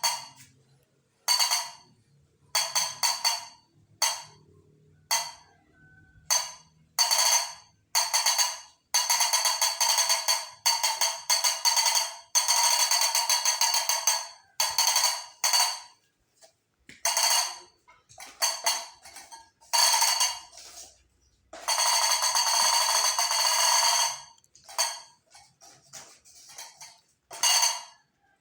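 Repeated bursts of bright rattling, jingling percussion. Some are short and fade quickly; others are shaken steadily for a second or two.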